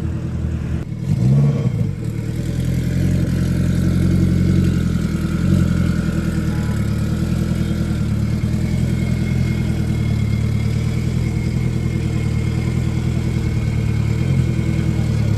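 Car engine running steadily at idle, with a brief blip of revs a little over a second in.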